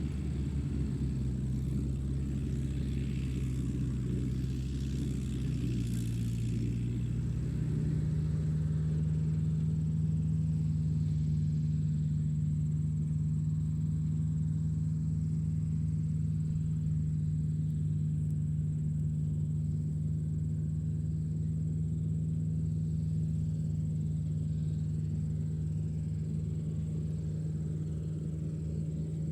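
Tractor engine running steadily. About a quarter of the way in, its speed steps up a little and the engine holds the higher pitch.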